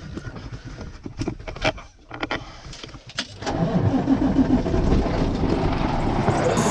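Scattered clicks and knocks, then a semi truck's diesel engine starts about halfway through and keeps running with a steady low drone.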